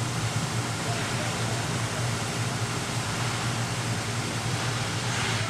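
Indoor ice rink ambience during a hockey game: a steady low hum under an even hiss, with a short louder hiss near the end.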